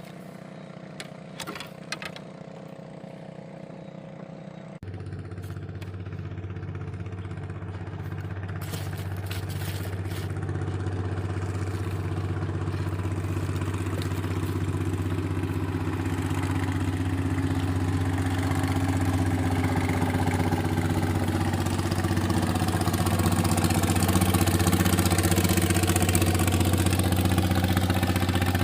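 An engine running steadily. About five seconds in it changes abruptly to a deeper, stronger note, then grows gradually louder.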